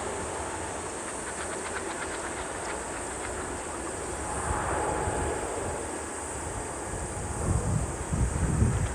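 Strong wind buffeting the microphone over a steady distant jet-airliner rumble, with heavier gusts near the end.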